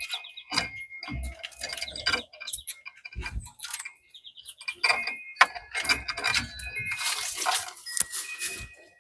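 Small birds chirping in short high notes, amid many quick clicks and rustles, with a louder rushing noise about seven seconds in that lasts a second and a half.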